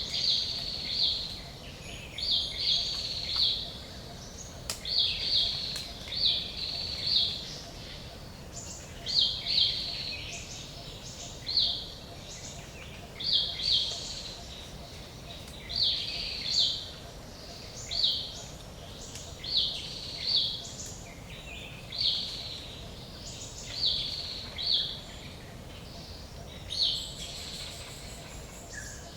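Forest ambience: a bird repeating a short high call about once a second, often in pairs, over a steady low background noise.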